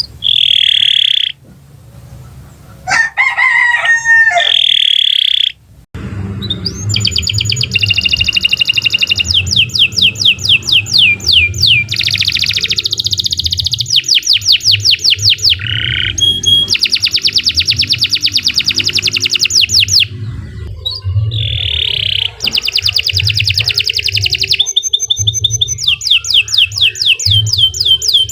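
Domestic canary singing a long, loud song of rapid high trills and rolls, phrase after phrase with only brief breaks.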